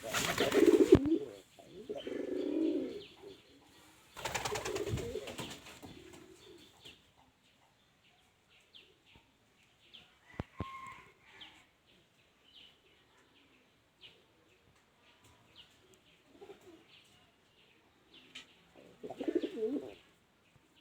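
Domestic pigeons cooing in several low calls, about a second each, with a couple of loud bursts of wing flapping near the start and about four seconds in, and faint high chirps in between.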